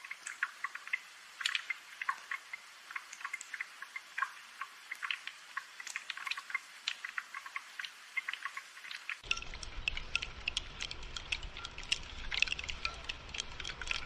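Rain falling as dense, irregular drips and patters. About nine seconds in, a low steady rumble joins it.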